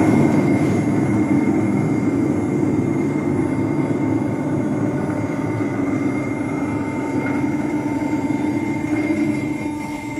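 CNC router machine running: a steady mechanical hum with a constant high whine above it, easing off slightly near the end.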